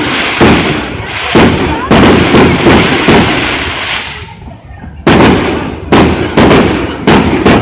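Aerial fireworks bursting in quick succession: loud sharp bangs, each trailing off in a rolling echo, a short lull a little after four seconds in, then another rapid volley.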